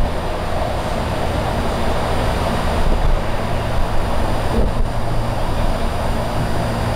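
Steady rumble and hiss of an electric passenger train approaching on the line, with a faint low hum underneath and no horn.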